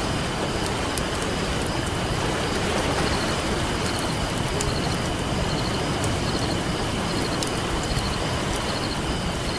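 Campfire crackling with scattered sharp pops over the steady wash of ocean surf.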